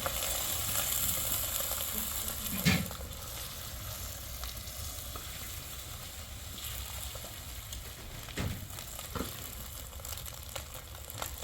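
Steady rain hissing, with a sharp knock about three seconds in and two lighter knocks later on.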